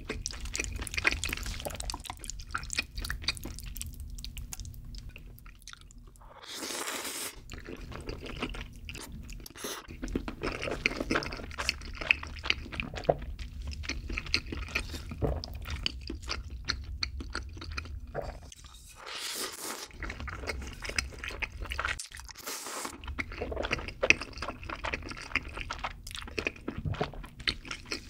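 Close-miked chewing of spicy carbonara pasta tteokbokki: a dense run of small, sticky mouth clicks and smacks. A few short, louder noisy rushes come about a quarter of the way in and twice past two-thirds.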